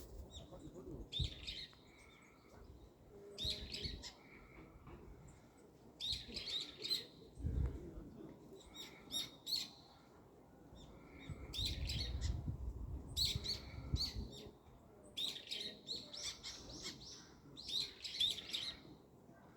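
Small birds chirping in short clusters of quick high notes every second or two, with a couple of brief low rumbles in between.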